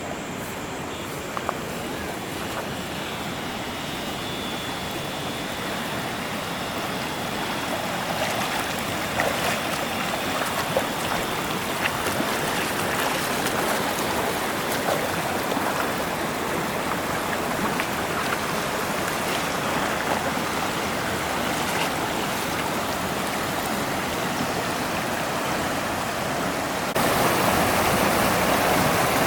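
Rushing water of a forest stream and waterfall, a steady noise that slowly grows louder and steps up suddenly near the end. A few faint ticks sound over it.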